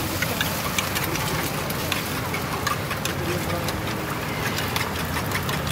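Chopped onions and beaten eggs sizzling in oil in a hot iron wok, with scattered crackles. A steady low rumble runs underneath.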